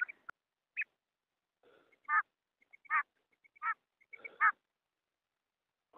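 Female quail calling: five short calls about a second apart, with faint short chirps between them, then a pause near the end.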